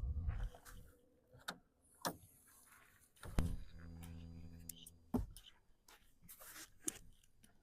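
Knocks, clicks and handling thumps of someone getting into a truck bed to sleep, with a low steady mechanical hum lasting about two seconds in the middle that ends on a sharp knock.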